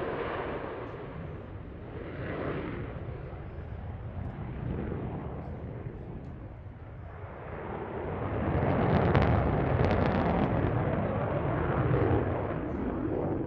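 Aircraft engine roar from a flyby: a loud rumble fading away, then building again about eight seconds in and staying loud until it drops off abruptly at the end.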